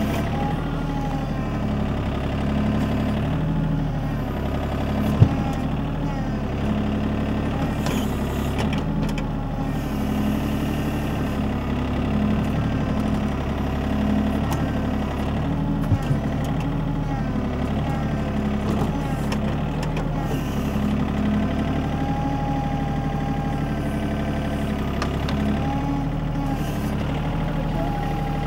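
Tractor engine running steadily, with a faint wavering whine above it and two sharp clicks, one about five seconds in and one about sixteen seconds in.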